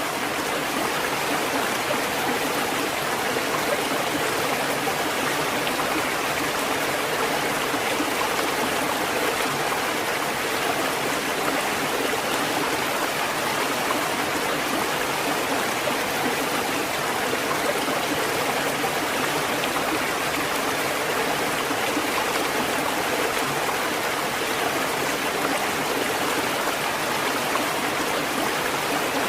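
Steady rushing water: an even, unbroken hiss with no rise and fall of separate waves.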